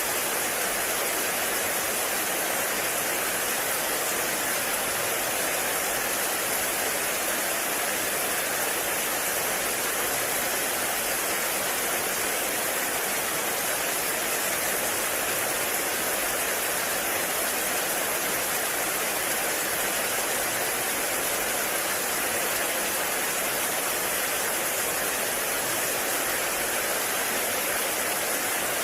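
Heavy rain falling steadily on a forest, an even hiss with no individual drops standing out.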